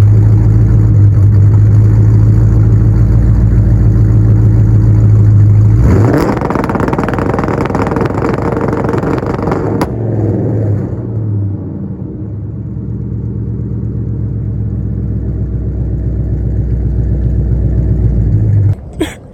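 Cammed Ford Crown Victoria V8 held at a steady high rev for about six seconds, then a rough burst of noise and a lower, steady running that slowly gets louder and cuts off abruptly near the end.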